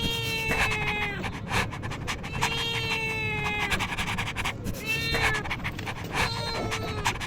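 Kitten meowing: four high, drawn-out meows, the middle one the longest, each dropping slightly in pitch at its end.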